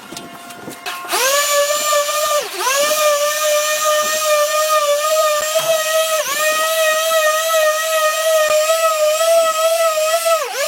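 A power tool's motor whining up to speed about a second in, then running at a steady high pitch. Its pitch drops briefly and climbs back three times.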